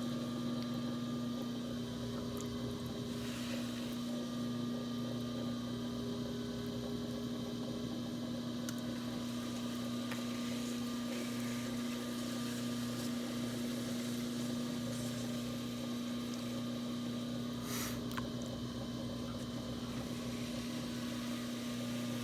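Electric potter's wheel running with a steady hum while a piece is thrown, with two brief rustles about three seconds in and near eighteen seconds in.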